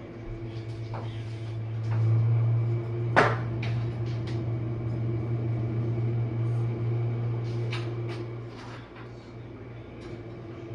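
Jenn-Air dishwasher running its main wash: a steady low hum from the wash pump with water spraying in the tub, scattered light clicks, and one sharp knock about three seconds in.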